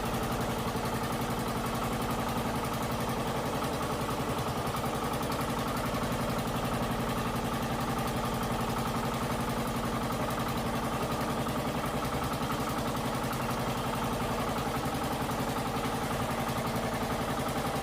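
Motorized bangka (outrigger fishing boat) engine running steadily at an even speed, a constant hum with a fast, regular beat and no revving.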